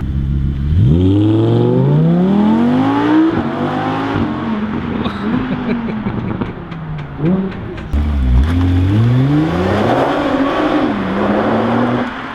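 Car engine revving hard: its pitch climbs steadily for about three seconds and drops, then climbs again about eight seconds in before easing off.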